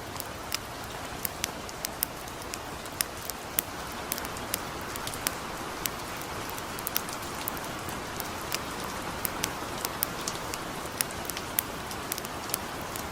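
Steady light rain hiss with irregular sharp crackles and pops from a burning campfire, several a second.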